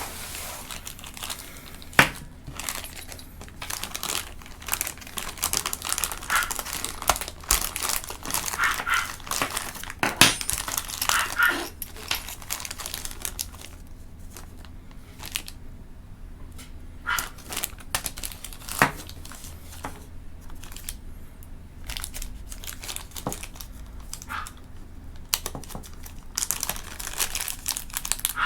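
Packaging crinkling and rustling while being handled, with many small clicks and knocks; a sharp knock about two seconds in and another about ten seconds in are the loudest.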